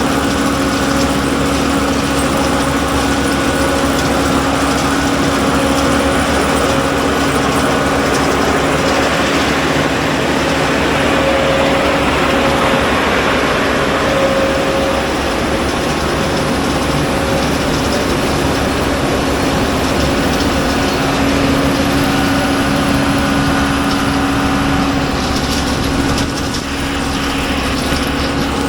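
Tractor engine running steadily, with a constant hum from the poultry-litter cruster it pulls as the cruster skims the caked litter. The sound dips briefly near the end.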